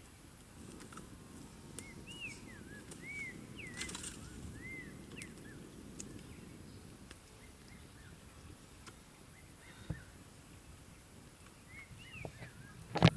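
A bird calling in a series of short arched chirps for a few seconds, then briefly again near the end. Underneath is a low, steady outdoor rustle. A single sharp knock, the loudest sound, comes just before the end.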